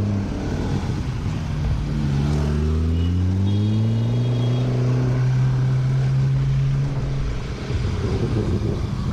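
Loud sports car engine revving as the car accelerates: its pitch climbs over the first few seconds, holds steady, then falls away near the end.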